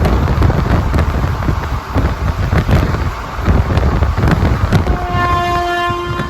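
Passenger train running at speed: a heavy low rumble with wind rush and sharp clicks of the wheels over rail joints. About five seconds in, a train horn starts sounding a long held chord of several tones.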